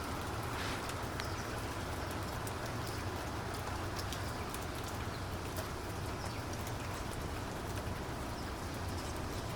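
Steady rain falling, with many individual drops ticking sharply over a constant hiss and a low rumble underneath. A few faint, short bird calls come through now and then.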